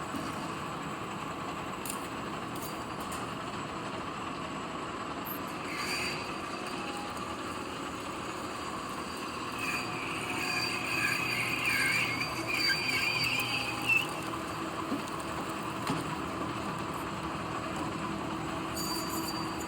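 Metal lathe running with a steady mechanical hum. Near the middle, a wavering high-pitched squeal lasts about four seconds.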